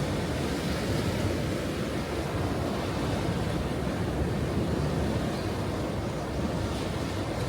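Ocean waves washing onto a shore, a steady rumbling surf with gentle swells in level and no single distinct crash.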